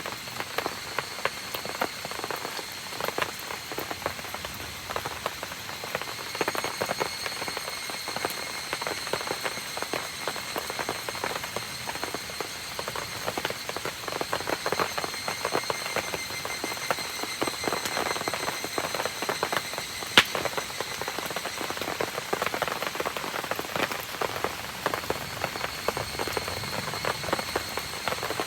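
Steady rain pattering down in dense, fine drops, with one sharp crack about twenty seconds in. Thin, steady high-pitched tones run underneath, with more joining after about six seconds.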